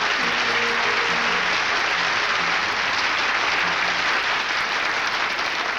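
Studio audience applauding steadily, with a few faint held musical notes underneath.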